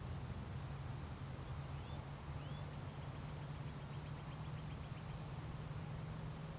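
Faint songbird calls: two short rising notes, then a rapid trill lasting about two seconds, with a few high chips, over a steady low hum.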